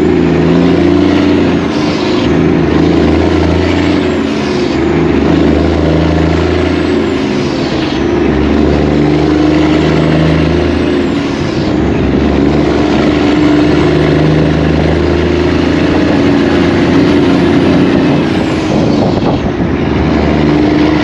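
Semi truck's diesel engine running loud and steady, its pitch stepping up and down a few times.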